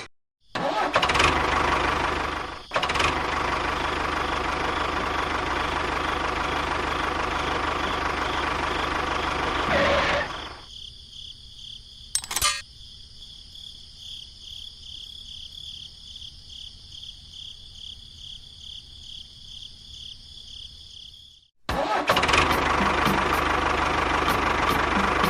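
Mini tractor machinery running steadily, heard in separate clips that cut in and out abruptly. A quieter middle stretch carries a high, pulsing whine and one sharp click.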